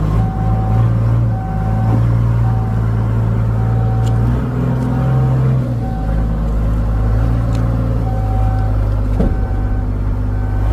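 A large vehicle or machine engine running steadily, with its pitch stepping up for about a second and a half near the middle, as when it is revved.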